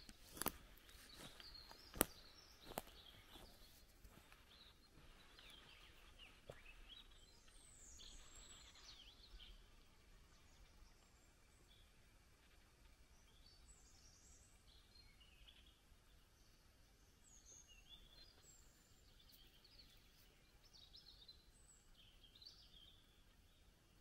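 Faint birdsong: scattered short high chirps and trills from small birds, over a quiet outdoor hiss. A few sharp knocks sound in the first three seconds.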